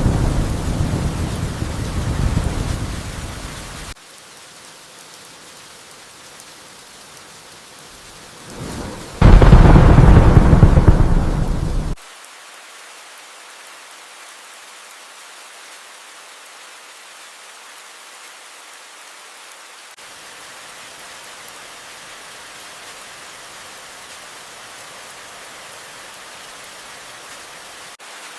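Steady rain with two rolls of thunder. The first rumble fades in the opening four seconds and stops abruptly. A louder crack and rumble about nine seconds in lasts some three seconds and cuts off suddenly, leaving only the even rain.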